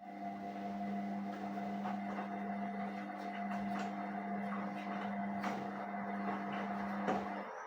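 Indesit WISN 101 washing machine on its rinse cycle. A steady electric hum with a rush of water starts suddenly, and the hum cuts off near the end while the water noise goes on.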